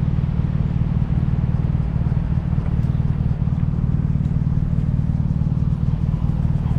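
BMW R nineT's boxer twin engine running at a steady cruise, its pulsing exhaust note holding an even pitch.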